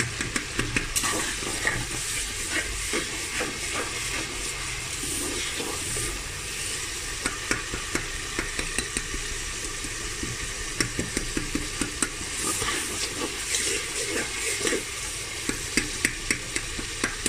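Sliced onions and tomato sizzling in hot oil in a pressure cooker, with a metal spatula scraping and clicking against the pot in bunches of quick strokes as it stirs them.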